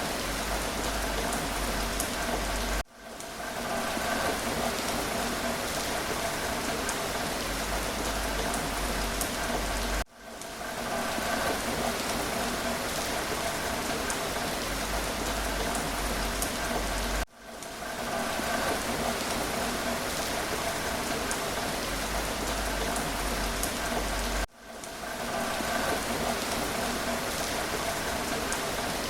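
Steady rain falling and pattering on surfaces. About every seven seconds the sound cuts out abruptly and fades back in over about a second, four times, repeating like a loop.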